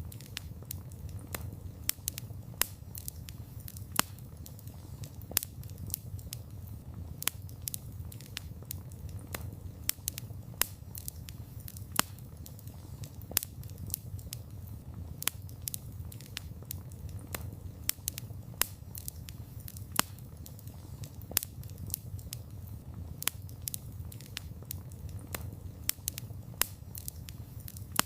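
Wood fire crackling: irregular sharp pops and snaps, some much louder than the rest, over a steady low rumble of burning.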